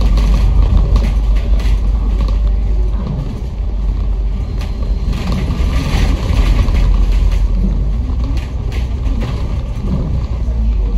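Kowloon Motor Bus running, heard from inside the cabin: a steady low engine and road rumble with scattered short clicks and rattles from the body.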